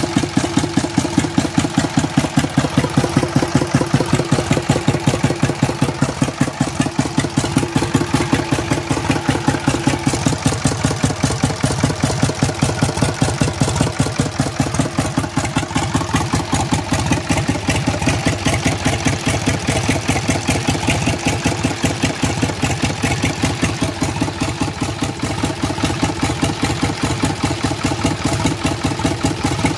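Old three-cylinder diesel tractor engine idling steadily, with an even, rhythmic beat.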